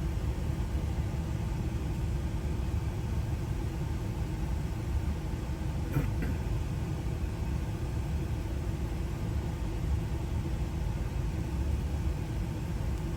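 Steady low rumble of an idling engine, with a faint small click about six seconds in.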